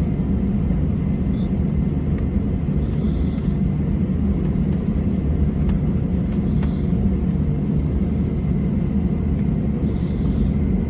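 Steady low rumble of an airliner cabin after landing: engine and airframe noise while the aircraft taxis, with a few faint ticks from the cabin.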